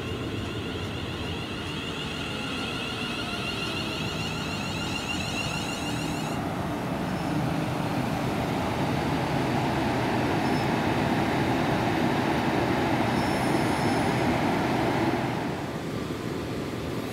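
A train passing on the line: a rushing, rumbling noise that builds to a peak, then drops away suddenly near the end as it clears.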